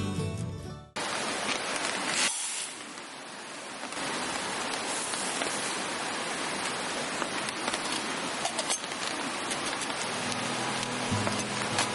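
Steady rain falling, an even hiss with scattered small drips; it briefly drops quieter a couple of seconds in, then carries on at the same level.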